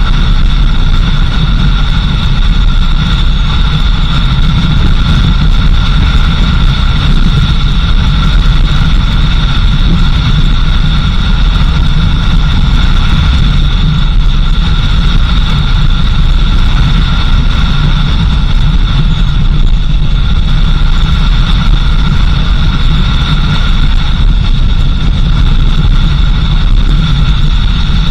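Car driving steadily: constant engine and road rumble with a steady high-pitched whine over it.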